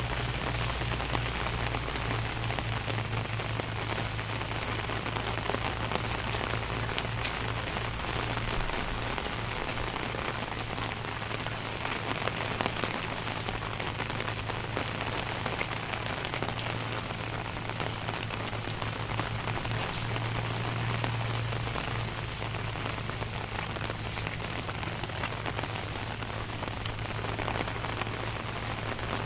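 Steady rain falling on surfaces: an even hiss, with a low hum underneath.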